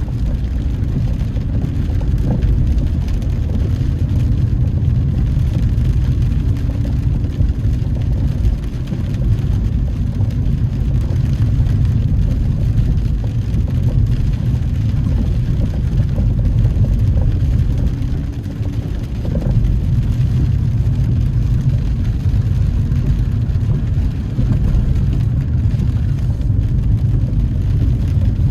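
Car engine and tyre noise heard inside the cabin while driving: a steady low rumble that eases briefly twice, about a third and about two thirds of the way through.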